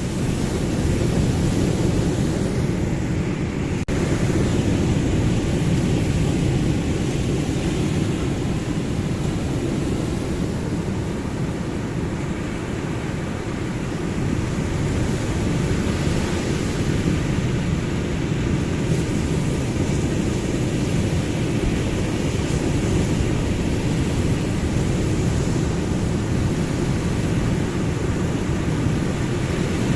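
Ocean surf: a steady, deep rushing of waves with no distinct breaks, easing slightly about halfway through.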